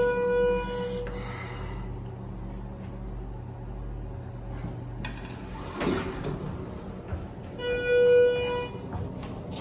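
Schindler 330A elevator's electronic arrival chime sounds twice, a single steady tone each time, once at the start and again about eight seconds in. A low steady hum fades about six seconds in, with a short clatter as it does.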